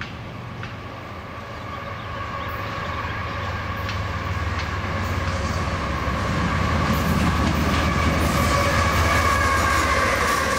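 Union Pacific freight train's diesel-electric locomotives approaching and passing close by, their engines rumbling and growing steadily louder, with a steady high whine and a few wheel clicks over the rail joints.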